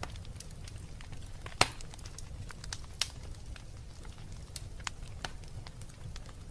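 Wood fire burning in a fireplace, crackling with scattered small snaps over a low steady rumble. Two louder pops stand out, the loudest about a second and a half in and another about three seconds in.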